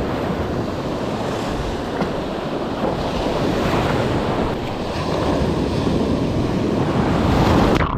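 Loud wind buffeting the microphone over the wash of sea waves around a kayak, a steady rushing noise that cuts off abruptly just before the end.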